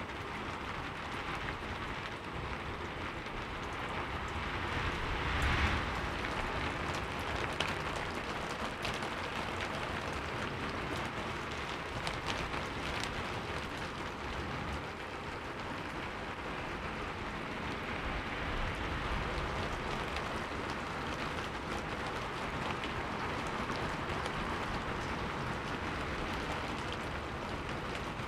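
Heavy rain falling steadily as an even hiss, with scattered sharp drop ticks and a brief louder swell about five seconds in.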